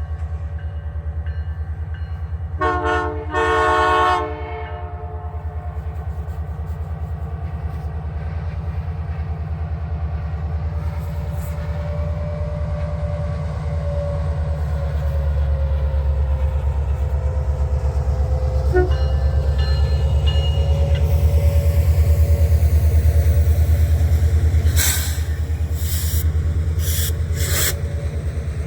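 The CPKC Christmas Train passes with a steady rumble of diesel locomotives and rolling rail cars. A few seconds in, the locomotive horn gives a short two-part blast. Several brief high-pitched bursts follow near the end.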